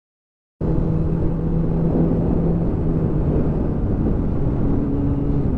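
2007 Kawasaki ZX6R's inline-four engine with a Yoshimura RS5 carbon end can running at steady revs while riding, under a haze of wind noise. The sound starts suddenly about half a second in.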